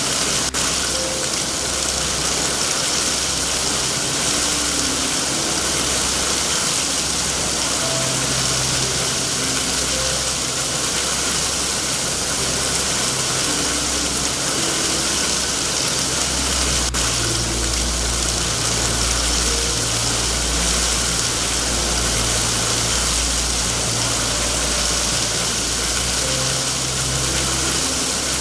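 Steady heavy rain with a deep low rumble underneath that grows louder about halfway through.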